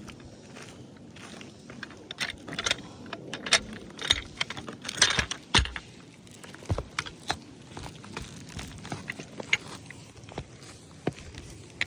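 Irregular clicks, taps and scrapes of hands and tools being handled on a roof while a 10x10 test square is laid out, thickest in the first half and sparser after.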